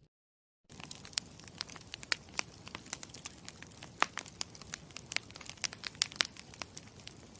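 Campfire crackling: irregular sharp pops and snaps, several a second, over a low steady hiss of burning wood. It starts abruptly out of dead silence about half a second in.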